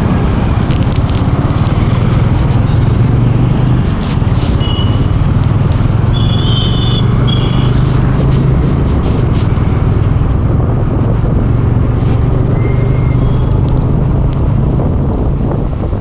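A motor running steadily with a constant low drone and a rushing noise, as heard while riding in a vehicle. A few brief high squeaks or chirps come through, the clearest about 6 to 7 seconds in.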